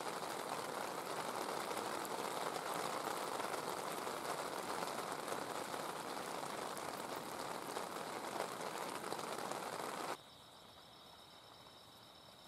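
Heavy rain falling, a steady even rush that cuts off suddenly about ten seconds in. After it, crickets or other insects keep up a steady high trill.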